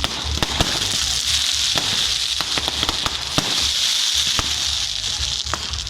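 Crackling fireworks: a dense, steady hiss with many sharp pops and cracks scattered through it.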